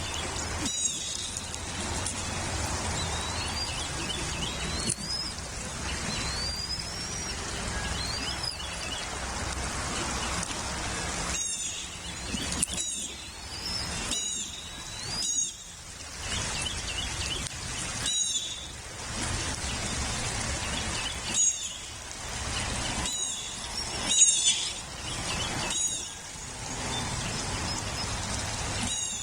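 Bald eagle calls: series of short, high, whistled chirping notes coming in bursts, over a steady hiss of background noise.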